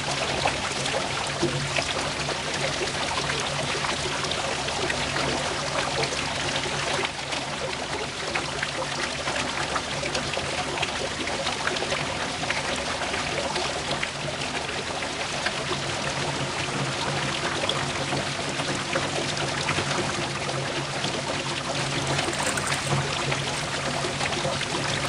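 Water pouring steadily from a mini water pump's outlet, with a steady low hum of the pump running underneath.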